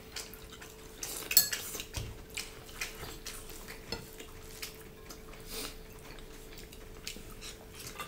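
Eating with the hands from ceramic plates: fingers mixing and scooping rice and curry against the plates and chewing, heard as a string of small clicks and clinks, the sharpest about a second and a half in.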